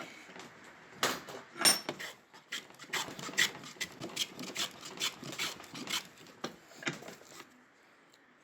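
Smoothing plane taking quick strokes along the edge of a small square wooden blank, about two strokes a second, each a short scrape of the blade shaving the wood. The strokes stop shortly before the end.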